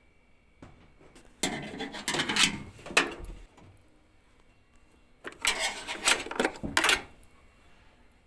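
Hard objects clattering and rattling as they are handled, in two bursts about two seconds long each, the second starting a little past the middle.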